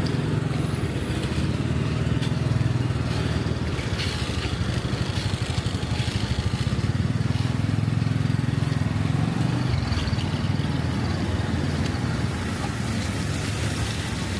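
An engine running steadily nearby, a low pulsing rumble that eases somewhat about ten seconds in.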